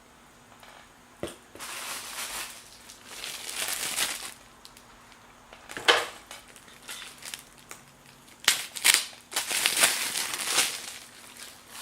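Crinkling and crumpling in irregular bursts, as of material being handled and crushed by hand, with a sharp crackle about six seconds in and a denser stretch near the end.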